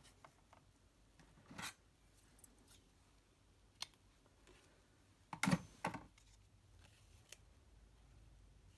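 Scissors trimming a piece of ribbon: a few separate quiet snips and clicks, the loudest pair about two-thirds of the way through.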